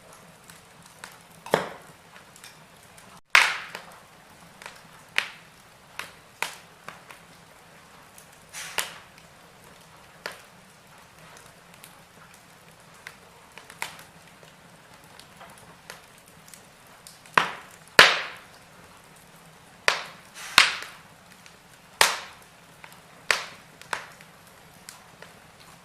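Wood fire in a fireplace crackling: burning firewood gives irregular sharp pops and cracks over a faint steady hiss. The loudest cracks cluster about two thirds of the way through.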